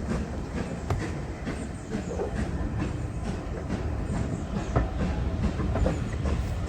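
Railway carriage running along the track: a steady low rumble with irregular sharp clicks from the wheels.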